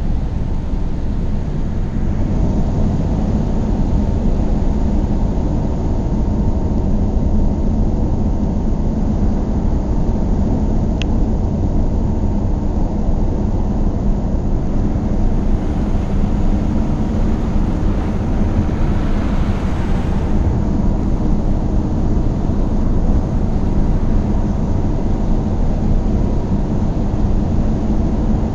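Car driving at road speed: steady low rumble of engine and tyre noise. A swell of hiss comes in for a few seconds past the middle, and there is a single faint click about eleven seconds in.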